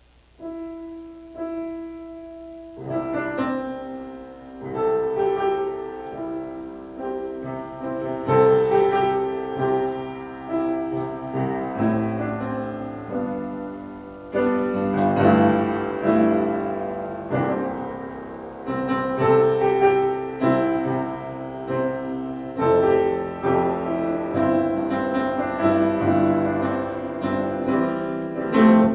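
Solo piano playing a slow piece. A few soft held notes come first, and fuller chords with a melody enter about three seconds in.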